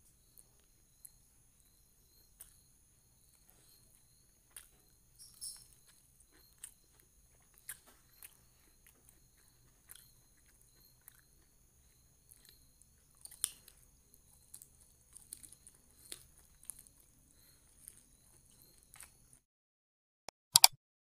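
Close-miked eating of fried chicken and rice: scattered faint chewing clicks and wet mouth smacks, with faint steady high-pitched tones underneath. Near the end, after a moment of silence, two sharp clicks, the loudest sounds, from a subscribe-button click effect.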